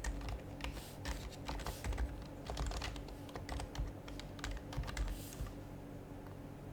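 Typing on an HHKB Professional HYBRID Type-S keyboard, its silenced Topre capacitive keys giving soft, muted clacks at an uneven pace. The typing stops about five and a half seconds in.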